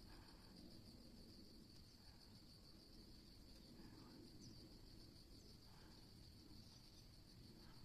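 Faint, steady chirring of insects, a high continuous pulsing trill, over a low outdoor background rumble.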